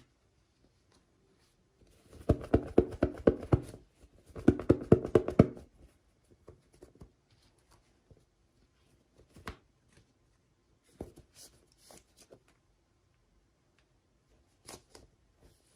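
Hands handling toy packaging: two bursts of rapid rattling clicks a few seconds in, then scattered light taps and clicks.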